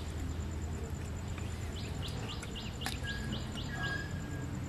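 A small bird chirping: a quick run of short rising chirps, about five a second, starting near the middle, over a steady low background rumble.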